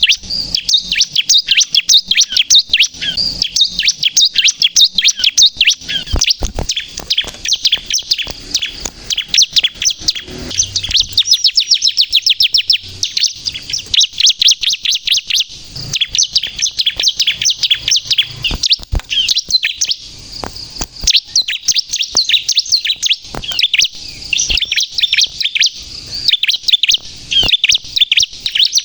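Bar-winged prinia (ciblek) singing in full voice: a continuous stream of rapid, high-pitched chirps and trills, broken only by brief pauses.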